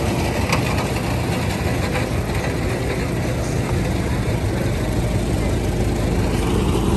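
Steady low rumble of antique vehicle engines running as they drive past on a gravel road, a Ford Model T touring car among them.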